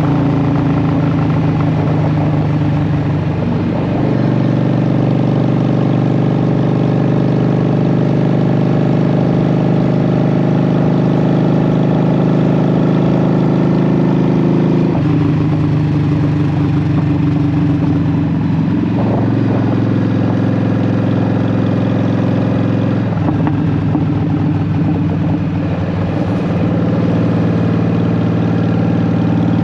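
Honda Shadow VT750 V-twin running through Vance & Hines Short Shot exhaust pipes while riding, a steady engine note that steps to a new pitch about four seconds in and again around fifteen, nineteen and twenty-three seconds, between long stretches held level.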